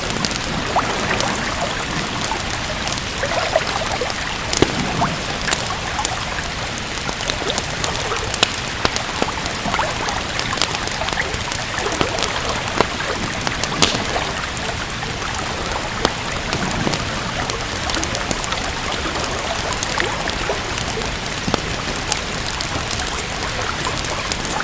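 Steady rain with a wood fire crackling over it: a constant hiss of rainfall broken by irregular sharp pops and snaps, a few of them louder.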